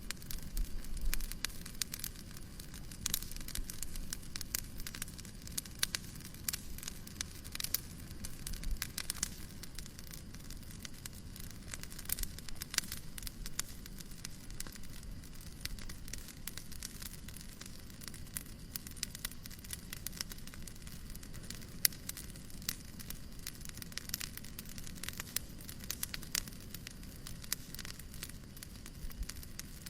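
Wood fire crackling: dense, irregular pops and snaps over a soft steady hiss.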